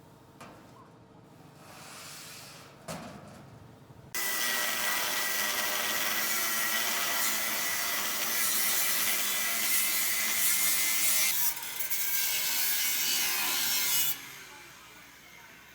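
A power tool cutting or grinding under load with a steady high whine, starting suddenly about four seconds in and stopping abruptly about ten seconds later.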